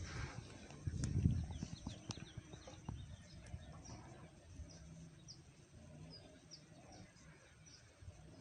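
Small birds chirping faintly outdoors, short high notes every second or so, over low background noise. A few low thumps and rustles come about a second in.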